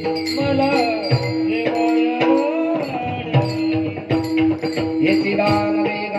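Marathi bhajan music: a gavlan melody sung over a steady held drone note, with hand-drum beats and jingling cymbals or bells keeping the rhythm.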